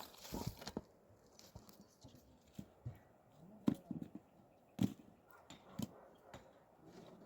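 A series of irregular knocks and thumps, a few clustered near the start and the loudest two a little past the middle, over a quiet background.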